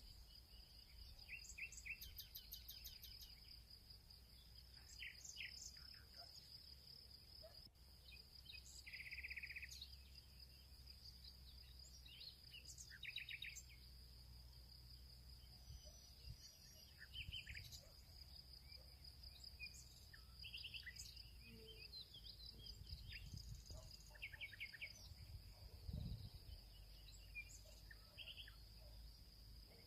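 Faint field ambience: a steady high-pitched insect trill, likely crickets, runs throughout, while birds give scattered short calls and chirps. A low rumble sits underneath.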